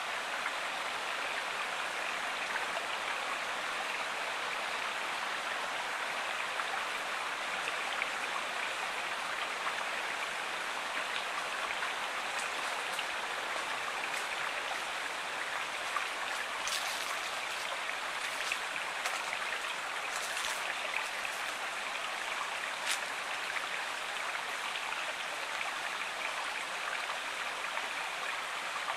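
Steady rushing of a flowing river or stream, with a few faint sharp ticks of water splashing about halfway through.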